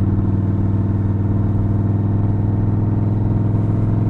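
Motorcycle engine running at a steady cruising speed with an unchanging pitch, heard from the rider's seat, with wind rumble on the microphone.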